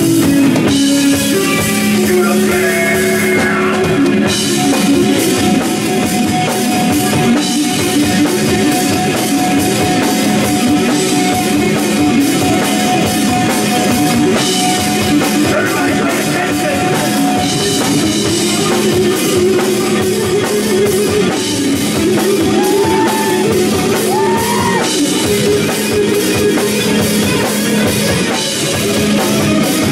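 Rock band playing: guitar over a drum kit keeping a steady beat, with some singing.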